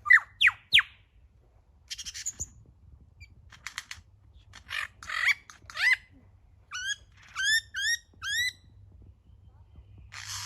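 Lyrebird calling in a string of varied sounds: sharp whistled sweeps and rapid clicky notes, then five quick rising whistled notes in a row about seven seconds in. A hissing burst of noise starts near the end.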